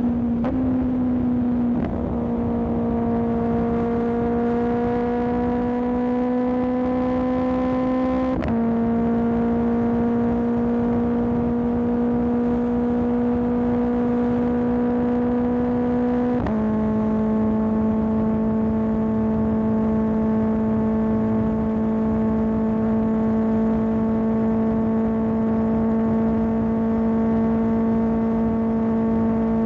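Kawasaki ZX-10R's inline-four engine running through an M4 aftermarket exhaust while riding. The pitch creeps slowly upward, then drops abruptly with an upshift about two, eight and sixteen seconds in. After the last shift it holds a steady cruising note.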